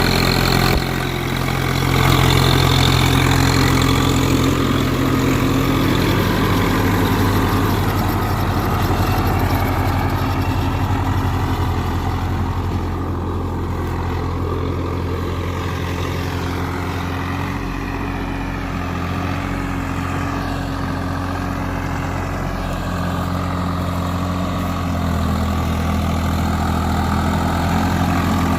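Swaraj 744 FE tractor's three-cylinder diesel engine running steadily, with a brief dip about a second in and a little louder near the end.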